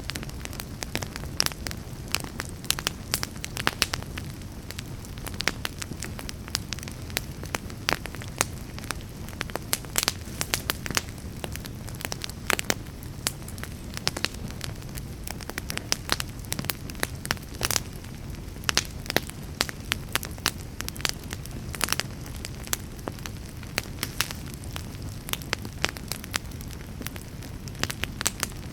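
Wood fire crackling in a fireplace: a steady low rumble of flame with frequent, irregular sharp pops and snaps.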